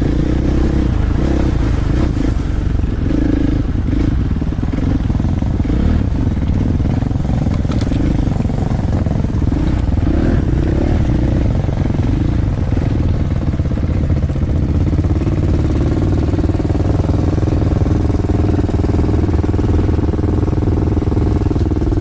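Dirt bike engine running while riding, its note holding fairly steady at a constant loud level.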